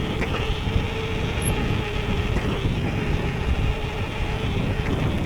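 Steady riding noise from an electric mountain bike on the move: wind rumbling on the microphone and tyre noise from the trail, with a faint steady hum running through it.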